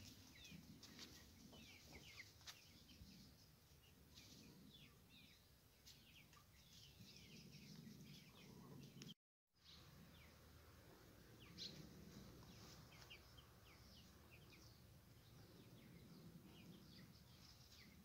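Faint chirping of birds: many short, high calls in quick succession throughout. The sound cuts out completely for a moment about nine seconds in.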